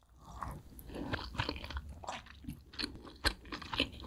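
Close-up chewing of fried chicken wings: irregular crisp crunches, several a second, as the meat and skin are bitten and chewed.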